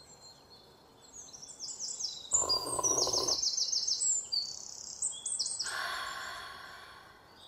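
Birds calling in a rapid series of high, quickly falling notes over a background hiss. A short, loud rush of noise comes about two and a half seconds in, and a softer one around six seconds.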